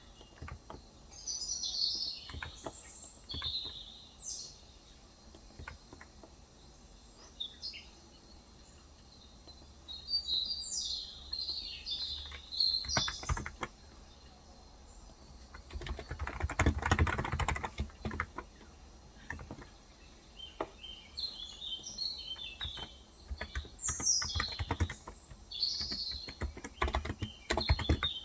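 Typing on a Cox Endeavor electrostatic-capacitive (contactless) tenkeyless keyboard with light 35 g switches: scattered keystrokes, with a dense flurry of fast typing a little past halfway. Small birds chirp in short bursts throughout.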